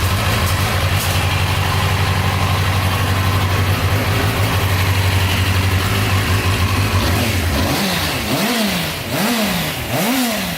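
Triumph TT600's four-cylinder engine idling steadily, then blipped through about four quick revs near the end.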